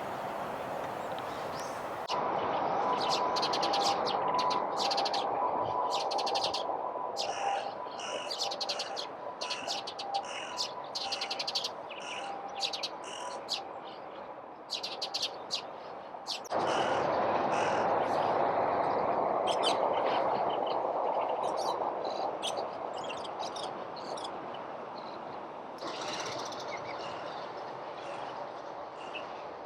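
Wild birds chirping in quick, repeated short notes over a steady background noise, with the chirping thinning out in the second half.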